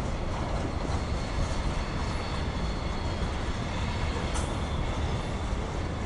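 Freight train cars rolling past, a steady rumble and rush of steel wheels on rail with a faint high steady whine over it and a single sharp click about four seconds in.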